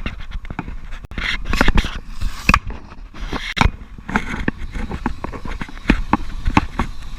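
Irregular knocks, clatters and scraping noises over a steady low rumble.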